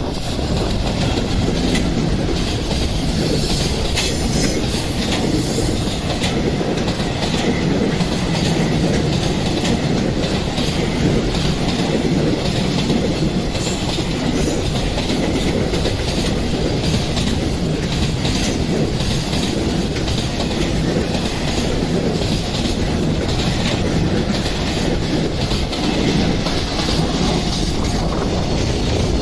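A train passing close by at speed, its wheels clattering over the rail joints in a steady run of clicks.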